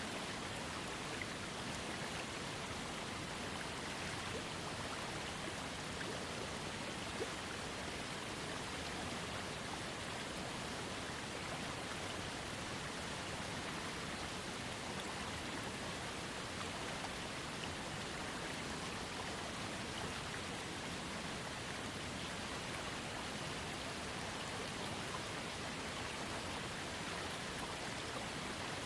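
Small waterfall on a trickling creek: falling, splashing water making a steady, even sound.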